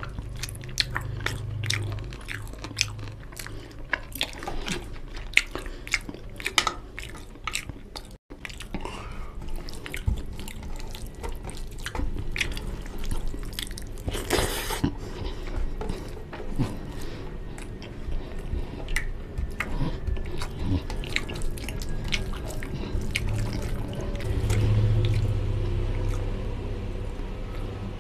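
Close-miked chewing of rice and mutton curry: wet mouth sounds with many irregular sharp smacks and clicks as handfuls of food go into the mouth.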